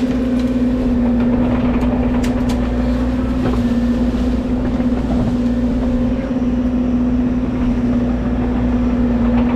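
Bobcat E60 excavator's diesel engine running steadily, with a constant low hum.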